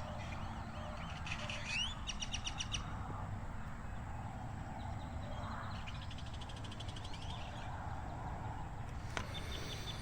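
Wild birds singing: a rapid trill of high chirps about a second in, with a short rising note, and another fast trill around six seconds, over a low steady background rumble.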